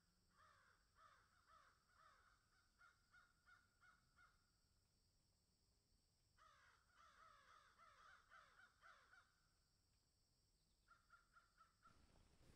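Faint bird calls: rapid series of short, harsh, downward-sliding caws, about three a second, in three bouts with pauses of a second or two between them.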